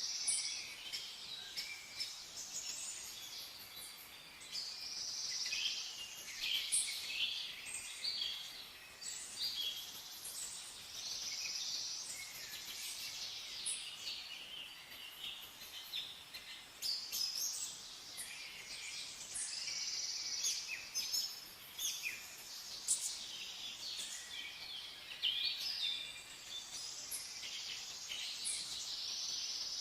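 Several songbirds chirping and singing at once: a dense, continuous chorus of high, overlapping calls and trills.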